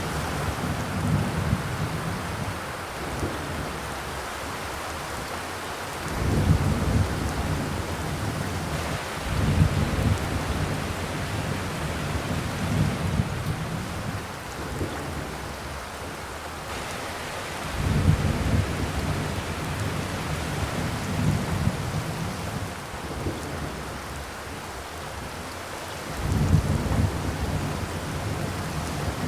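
Rain falling on a zinc roof, a steady hiss of drops on the metal, with deep rumbling swells that rise and fade every few seconds.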